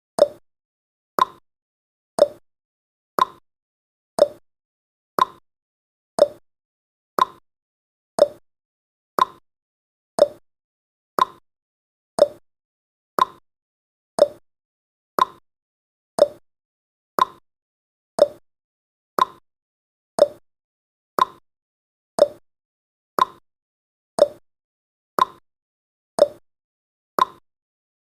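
A clock-tick sound effect on a countdown timer, one short sharp tick each second, the ticks alternating a little in pitch like a tick-tock.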